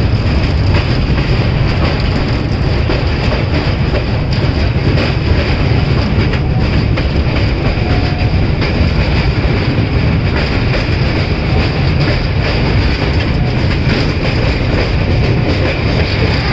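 A passenger express train's coaches rolling along the track: a steady heavy rumble with light wheel clatter and a thin, steady high squeal from the wheels.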